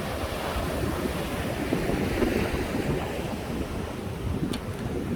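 Sea surf washing on a beach, with wind buffeting the microphone. A faint short click comes near the end.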